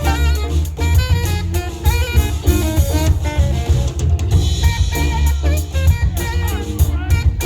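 Live funk band playing: a driving electric bass and drum-kit groove under guitar and keyboard lines.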